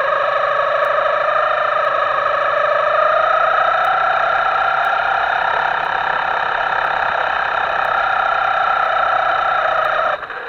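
Small electric motor of a Himoto radio-controlled model running with a steady whine that creeps slowly upward in pitch, then cuts off abruptly about ten seconds in.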